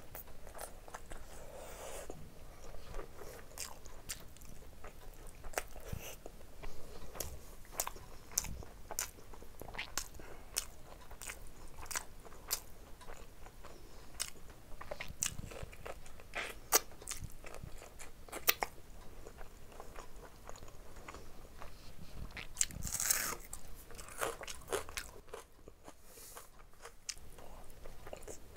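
Close-miked chewing and mouth sounds of a person eating rice and curry by hand: a dense run of short, wet smacks and clicks throughout.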